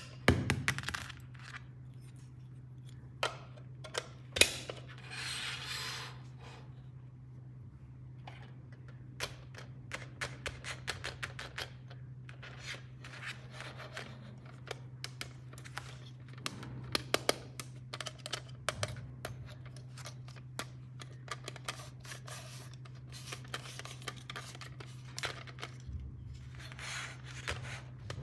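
Hands unboxing a plastic toy set: a long run of small clicks and taps from plastic pieces and packaging, with brief rustling now and then, over a steady low hum.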